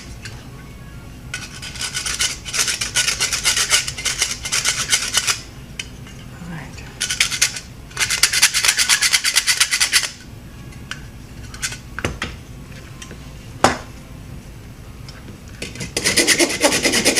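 Wood rasp filing a hard nylon Benebone wishbone dog chew in quick back-and-forth strokes, smoothing off sharp chewed edges. The filing comes in several spells of a few seconds with short pauses between, and a single sharp knock sounds in one pause.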